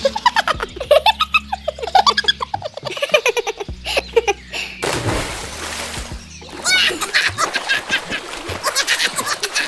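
High-pitched laughter and giggling in quick, repeated bursts over steady background music, with a short pause about halfway through before the laughing starts again.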